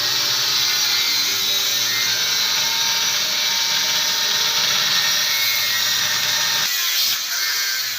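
Handheld electric power tool running steadily at full speed, dropping off about seven seconds in.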